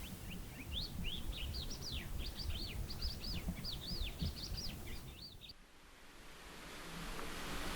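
A songbird chirping: a quick run of short rising-and-falling chirps for about five seconds that cuts off suddenly, followed by a slowly swelling hiss.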